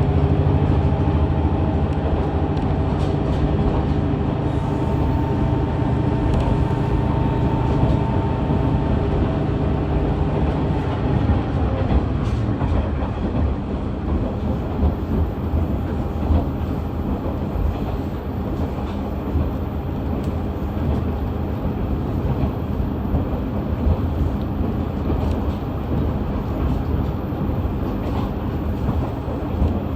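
KiHa 110-series diesel railcar running, its DMF14HZ diesel engine pulling under power with a steady hum and whine for about the first twelve seconds. The engine tone then drops away and the car coasts, leaving wheel and track rumble with scattered clicks from rail joints.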